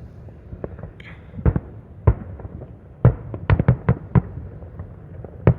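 Fireworks going off around the listener: a run of sharp bangs and pops, a few scattered ones, then a quick burst of about eight between three and four seconds in, and one more loud bang near the end.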